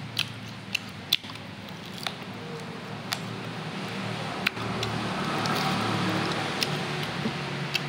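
Close-up eating sounds: chewing boiled beef, with scattered sharp wet mouth clicks and smacks, over a low steady hum.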